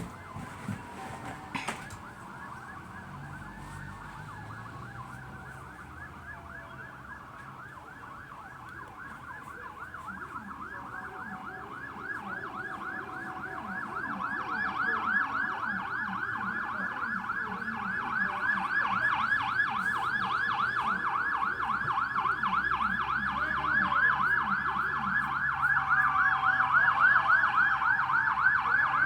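Emergency-vehicle siren sounding a fast yelp, its pitch sweeping up and down several times a second and growing louder as it approaches, over the low rumble of engines.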